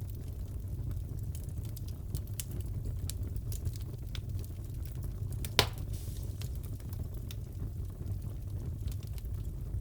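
Wood fire crackling in a fireplace: a steady low rumble with scattered small pops and one loud sharp pop just past halfway.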